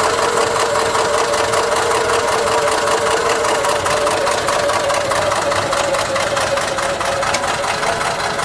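Citroën GS 1300's air-cooled flat-four engine running steadily with a fast, even ticking knock, the bad sound the owner is showing. The sound eases slightly near the end.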